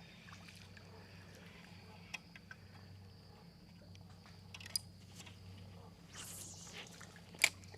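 Faint outdoor ambience: a steady high insect drone over a low hum, with scattered light clicks, a short rushing noise about six seconds in and one sharp click near the end.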